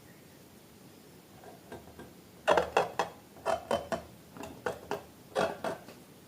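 Glossy slime being squeezed and poked by hand: short, sticky squelches and clicks in an irregular run, starting about two and a half seconds in after a quiet start.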